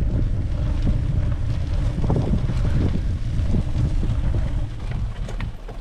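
Wind buffeting the microphone: a heavy, steady low rumble with some faint ticks, easing a little near the end.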